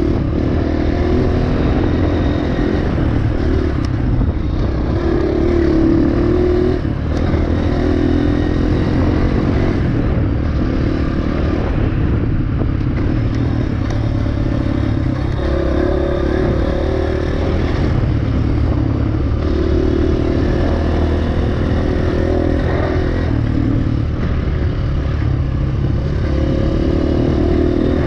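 Enduro dirt bike engine running under way on a trail, its revs rising and falling with the throttle, with clattering from the bike over rough ground.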